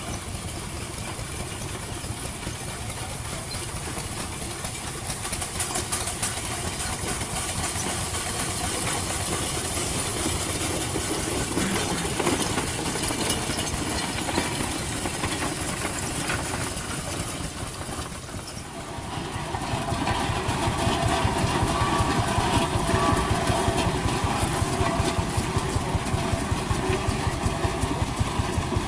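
Vintage engines running steadily. About two-thirds of the way through, the sound dips and changes abruptly to a louder engine firing in an even, rapid rhythm.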